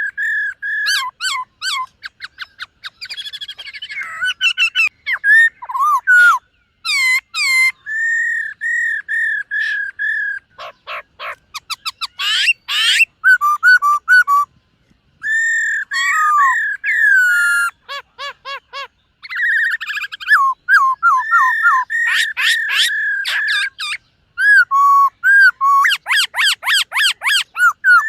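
Black-throated laughingthrush singing a long, varied whistled song: runs of repeated clear notes, rapid trills and sliding phrases, broken by a short pause about halfway through.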